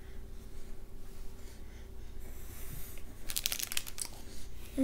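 A child chewing a bite of polvoron, a soft crumbly shortbread, with a brief burst of crinkling packaging about three seconds in.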